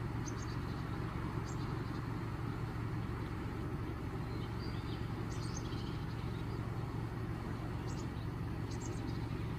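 Steady low background rumble of distant traffic, with short high-pitched bird chirps in small clusters: a few near the start, around the middle, and again near the end.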